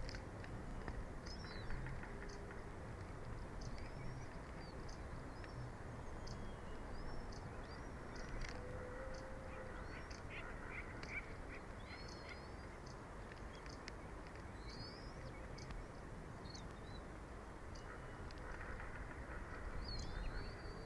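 Short high chirping bird calls, repeated irregularly throughout, over a steady background rush.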